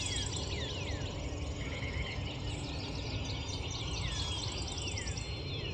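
Dawn chorus of many songbirds singing at once: overlapping falling whistled notes and fast high-pitched trills, over a steady low rumble.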